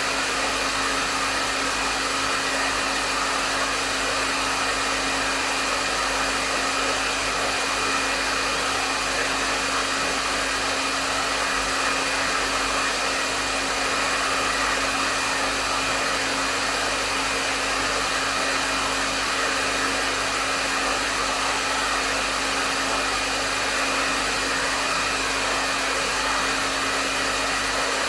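Hair dryer blowing steadily at a medium setting: an even rush of airflow with a steady motor whine and no change.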